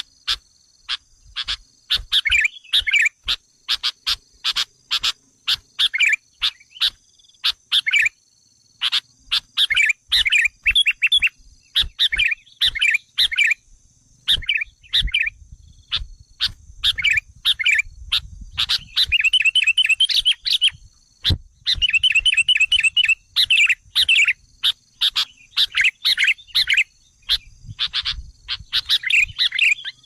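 Sooty-headed bulbuls (kutilang) calling agitatedly, as used to lure wild bulbuls: quick chirps and sharp clicking notes, with fast runs of repeated notes in the second half, over a steady high tone.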